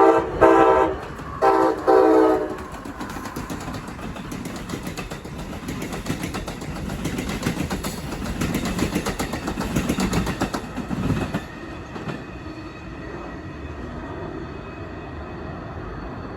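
Amtrak Keystone train passing at speed. Its horn sounds in a few short blasts over the first two seconds or so, then wheels clatter rapidly over the rails as the cars rush by. The clatter cuts off suddenly about eleven seconds in as the last car clears, leaving a faint hum.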